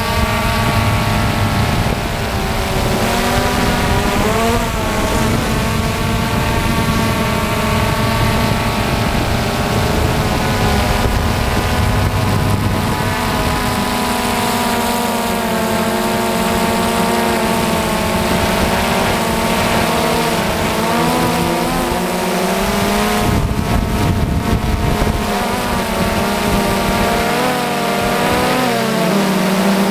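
DJI Phantom FC40 quadcopter's four motors and propellers buzzing in flight, several tones whose pitch rises and falls as the throttle changes, with wind rumble on the microphone.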